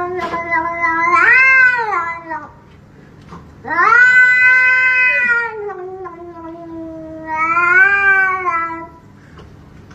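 Domestic cat yowling in long, drawn-out calls that rise and fall in pitch. One call runs through the first two seconds or so. Another starts near four seconds, sinks lower and carries on, swells again, and breaks off near the end.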